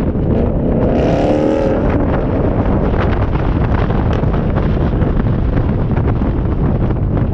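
A car driving, its engine and road noise with heavy wind buffeting on the microphone; about a second in, the engine note rises briefly.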